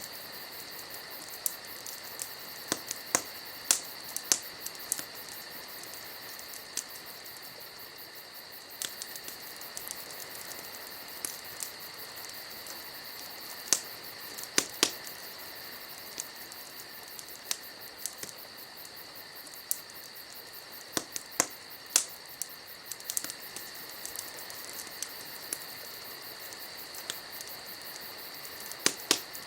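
Wood campfire crackling, with sharp irregular pops and snaps every second or so, over a steady high chirring of insects such as crickets.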